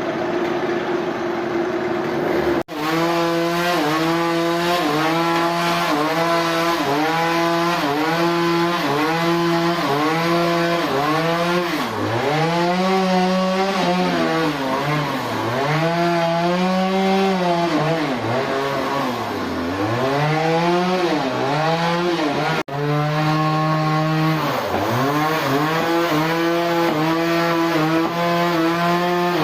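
Chainsaw running at high revs while cutting wood, its pitch dipping under load and recovering about once a second, then in deeper, slower dips. It breaks off for an instant twice.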